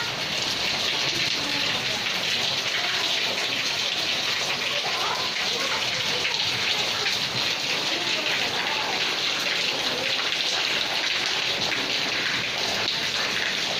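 Steady rain falling on a concrete passage and roofs, with runoff splashing from the roof edges onto the wet floor.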